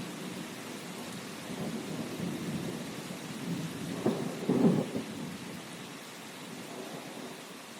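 Steady rain with rolling thunder rumbling underneath, swelling loudest about four to five seconds in and then dying away.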